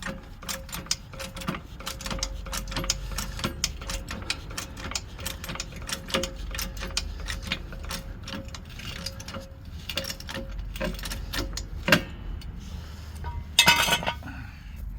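Car jack being worked to raise the car: a long run of rapid ticking clicks, with a faint steady whine through the first two-thirds and a louder scraping burst near the end.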